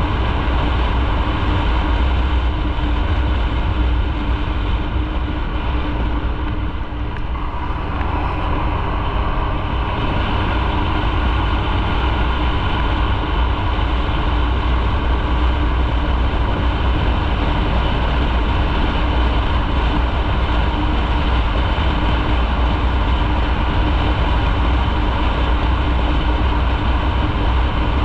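Motorcycle riding on the road: steady wind rumble on the microphone over the engine's running hum, easing briefly about seven seconds in.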